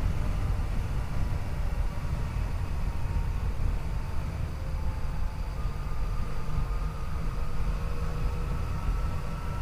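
Yamaha FJ-09's three-cylinder engine running at a steady cruise, its note drifting slowly and rising slightly in the second half, under heavy wind rush on the microphone from riding at speed.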